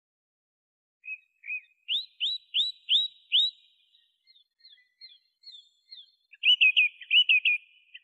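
A songbird singing clear whistled notes: after about a second of silence, two lower notes, then about five quick rising notes, a few fainter ones, and from about six seconds in a run of louder rapid warbled phrases.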